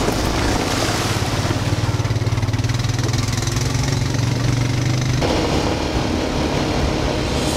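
Quad (ATV) engine running steadily while riding, with a strong low hum that drops away suddenly about five seconds in.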